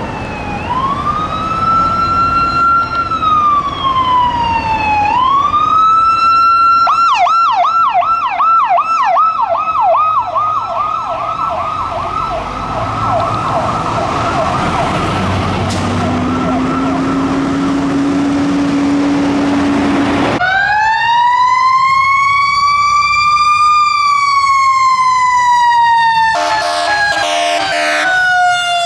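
Police patrol SUV's electronic siren cycling from a slow wail into a fast yelp, with a steady low horn tone held for a few seconds. After a sudden change, a fire truck's siren winds up and falls slowly in a long wail, with short horn blasts near the end.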